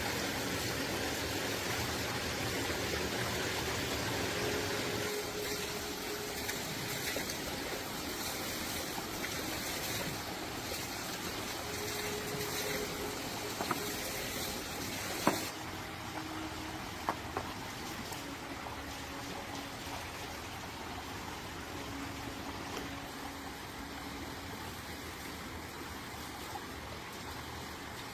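Running water: a steady rushing noise with a few faint clicks. About halfway through, the sound suddenly turns duller, losing its hiss.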